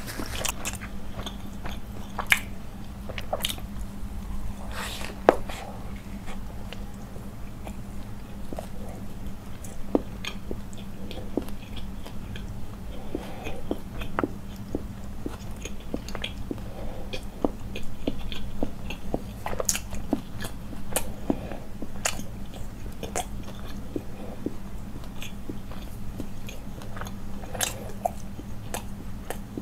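Close-miked chewing and biting on a chicken roll in flatbread, with many short wet mouth clicks and smacks.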